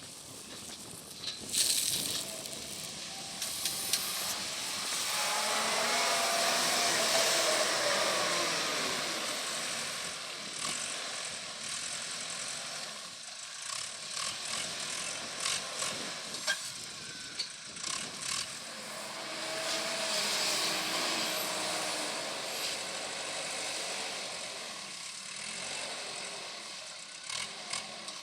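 Deutz-Fahr Agrotron 6190 TTV tractor running with a Criap Midi Baler 85 round baler-wrapper: engine and machinery noise with hissing and rattling clicks. It grows louder and fades away twice.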